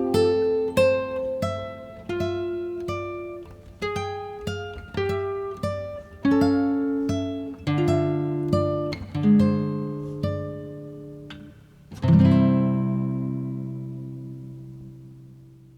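Background music: acoustic guitar picking single notes and chords. About twelve seconds in it lands on a final chord that rings out and fades away.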